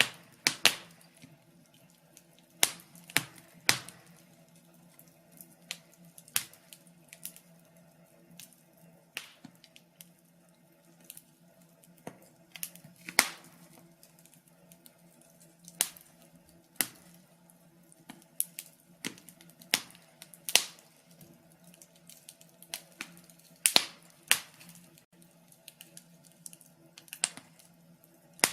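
Burning wood fire crackling, with sharp irregular pops and snaps a second or so apart, some in quick clusters, over a faint steady low hum.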